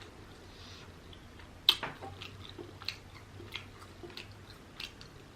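Close-miked chewing of rotisserie chicken: irregular short mouth clicks and bites, the sharpest a little under two seconds in.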